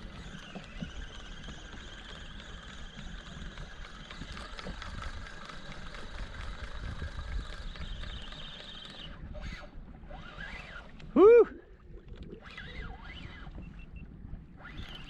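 Spinning reel's drag buzzing steadily as a hooked fish, which the angler takes for a king mackerel, runs and pulls line off; the buzz stops about nine seconds in. A loud "Woo!" shout follows a couple of seconds later, over a low wash of water and wind.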